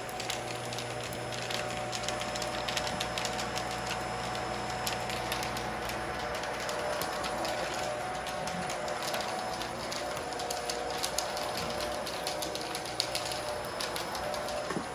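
Vacuum cleaner running steadily over a rug while picking up dry, crunchy debris, with many quick clicks and rattles of bits being sucked up over a steady motor hum.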